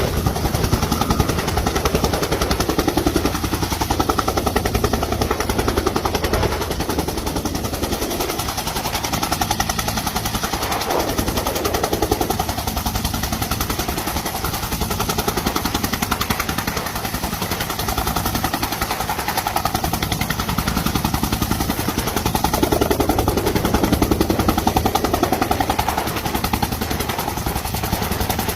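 Bell UH-1H Huey helicopter running, its two-bladed main rotor making a rapid, even chopping over the turbine's noise.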